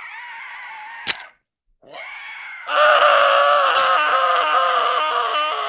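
Horror sound effect of a person crying out in pain. The cry is cut by a sharp crack about a second in, and after a short gap it becomes a long, loud scream with another crack in the middle.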